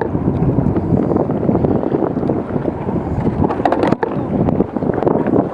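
Strong wind buffeting the microphone, a steady rough rumble, with a brief cluster of sharp clicks a little before the four-second mark.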